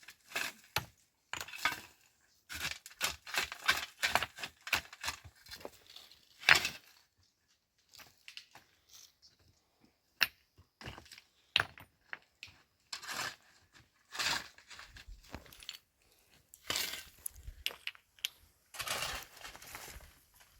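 Stones being handled and set in place: irregular knocks, clacks and scrapes, dense for the first several seconds, sparser after a quieter stretch in the middle.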